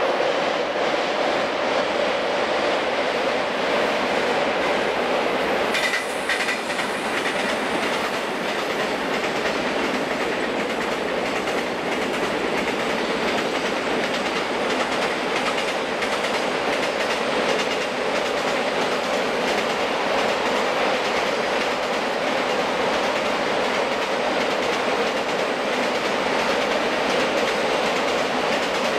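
Long container freight train rolling steadily past, its wagon wheels clattering rhythmically over the rail joints under a continuous rumble.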